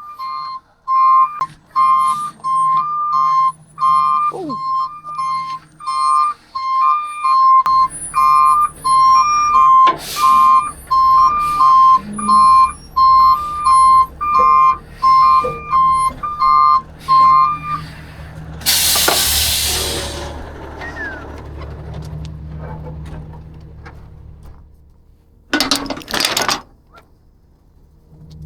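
Electronic two-tone alarm beeping, alternating between two high pitches about once a second, which stops about eighteen seconds in. From about eight seconds in, a truck engine runs underneath. A loud hiss comes just after the beeping stops, and a short loud burst of noise near the end.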